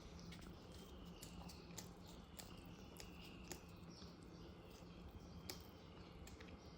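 Faint eating sounds: scattered crisp clicks of a person chewing, over a low steady hum.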